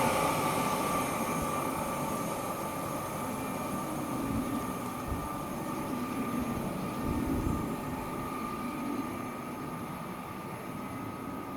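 A train moving away along the line, its rumble and a steady whine fading gradually as it recedes.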